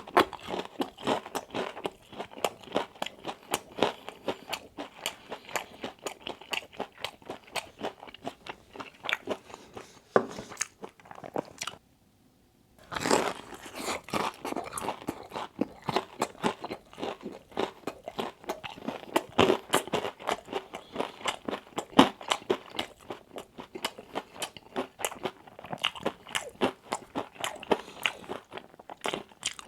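A person biting and chewing crispy fried Wingstop food, with rapid wet crunches several times a second and a short pause about twelve seconds in.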